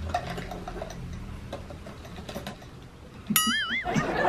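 Sparse crisp clicks of close-up chewing and eating. Near the end a short wavering, whistle-like sound effect comes in, followed by a louder burst of dense noise.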